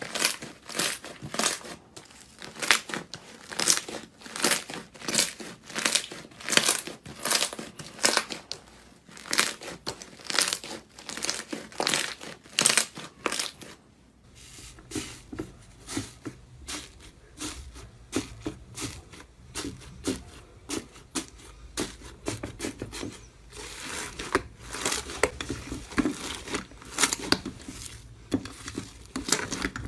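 Crunchy crackling and crinkling of a material being squeezed and crushed, in quick repeated squeezes. About halfway through it changes to a softer crackling over a low steady hum.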